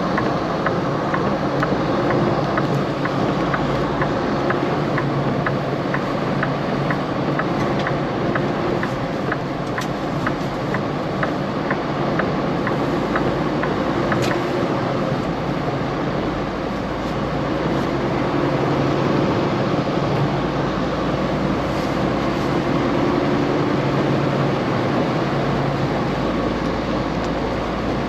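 Semi-truck running down the road, heard from inside the cab: steady engine and road noise. A light, regular ticking, about two to three a second, runs through the first half and then stops.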